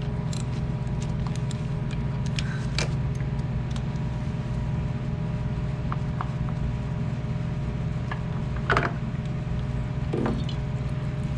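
Steady low mechanical hum with a few fixed tones in it, with scattered light clicks and clinks, a few seconds apart, as a ratchet works the oil filter off a Harley-Davidson Twin Cam engine.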